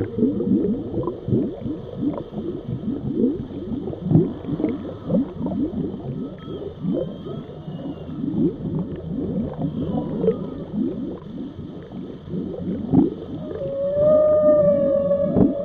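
Whale calls: a dense, rapid stream of short, falling low-pitched calls, with one long held moan starting near the end.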